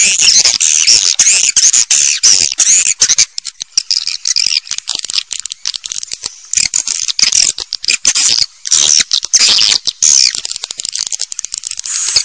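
Swiftlet calls: dense, rapid, high-pitched chirping and twittering, thinning a little in the middle, the recorded call sound played to draw swiftlets to a nesting house.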